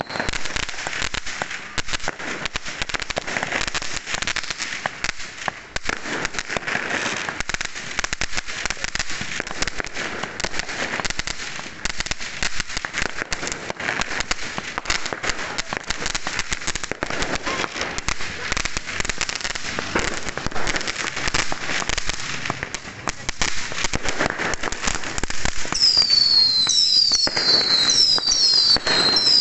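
New Year fireworks and firecrackers going off without a break, a dense run of bangs and crackling. Near the end comes a string of high whistles that fall in pitch, one after another.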